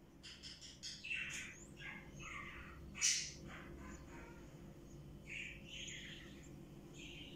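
Small birds chirping in short, scattered calls, with one sharper, louder sound about three seconds in.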